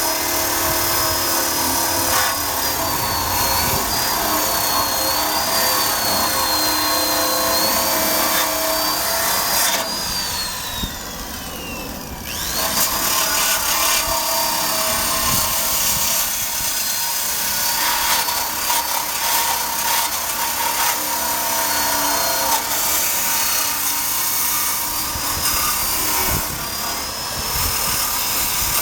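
Power tool spinning a wire brush against the bare metal frame, scrubbing off rust with a high, wavering motor whine. About ten seconds in the tool is let off and spins down, then it starts again and keeps brushing.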